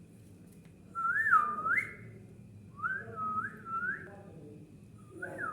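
Whistling in three short phrases, each a single pure note that swoops up and down in pitch.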